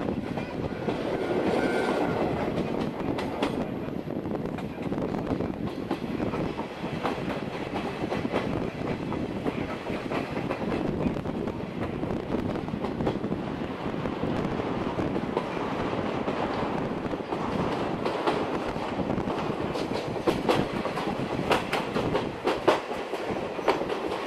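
Steam-hauled passenger train running, heard from inside a coach: a steady rumble of wheels on track with sharp clickety-clack over the rail joints, the clicks louder and more frequent near the end.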